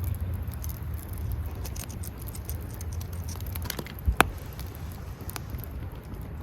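Wood campfire crackling with scattered sharp pops, and one loud snap about four seconds in, over a steady low rumble.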